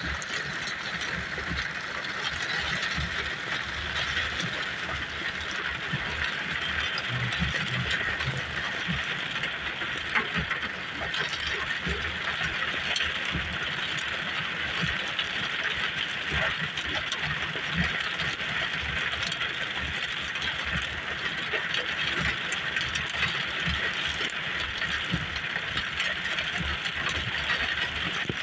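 Heavy rain falling steadily: a dense, even hiss peppered with the small ticks of individual drops, over a low rumble.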